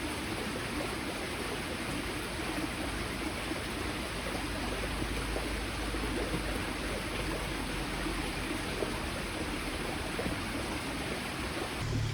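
Small mountain stream running with a steady babble of water.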